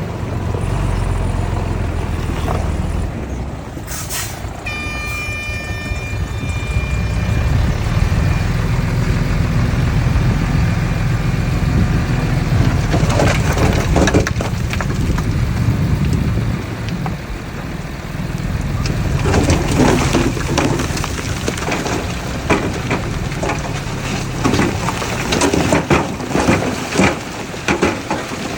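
Diesel engines of a bulldozer and dump truck running steadily under load. A high squeal about five seconds in lasts a couple of seconds, and rapid clattering and knocking is heard around the middle and through much of the second half.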